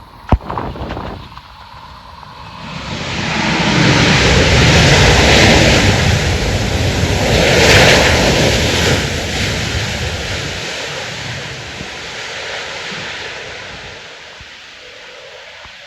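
A jet airliner passing close overhead: a roar that swells over a few seconds, peaks twice and slowly fades, mixed with wind buffeting the microphone. A sharp click comes just after the start.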